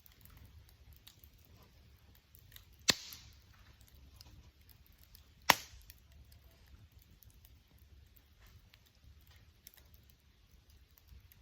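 Bonfire crackling faintly, with two loud, sharp pops from the burning wood about three seconds and five and a half seconds in.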